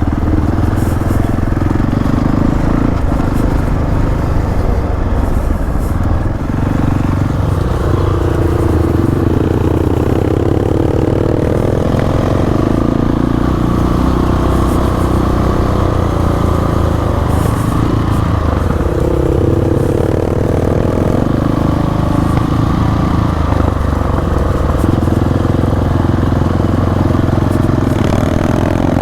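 Single-cylinder dual-sport motorcycle engine running under way on a dirt trail, its pitch rising and falling with the throttle.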